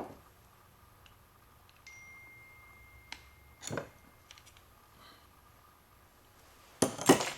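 Metal tools and steering-column parts knocking together: a light strike that leaves a brief high metallic ring, a single knock, then two louder knocks close together near the end, as a part is driven down.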